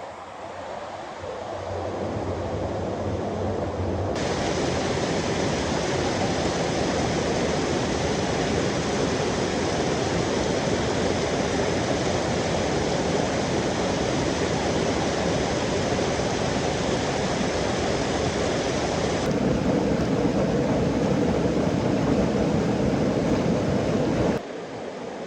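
Waterfall water rushing as a steady, even noise, changing abruptly in tone a few seconds in and twice more near the end.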